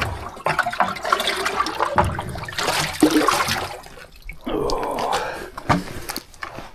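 Water being poured from a bucket into a duck pond, splashing and gushing in uneven surges.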